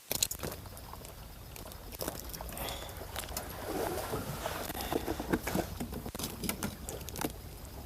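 Scattered sharp clicks and taps at an irregular pace, thickest about five to seven seconds in, over a low steady rumble.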